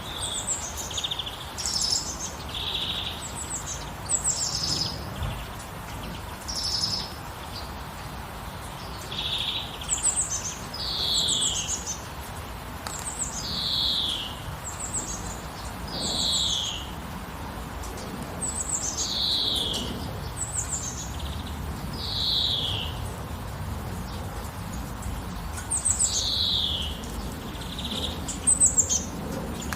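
A songbird calling over and over, about one call every second or two. Each call is a short high note sliding down in pitch, some with a buzzy lower note, over a steady background hiss.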